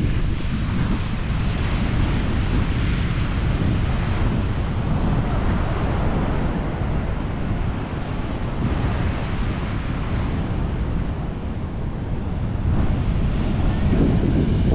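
Ocean surf breaking and washing up the beach, swelling and fading over several seconds, with wind buffeting the microphone as a continuous low rumble.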